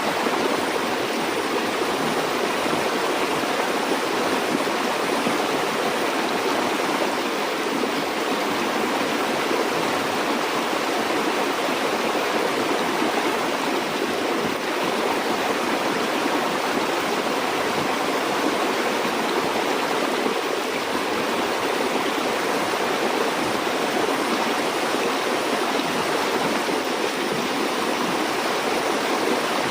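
Stream or river water flowing steadily over rocks, a continuous, even rushing with no pauses or changes.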